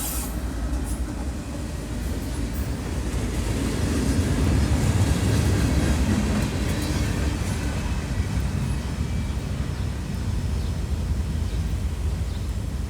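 A train rolling past with a steady rumble, growing louder to a peak about four to six seconds in and then easing slightly.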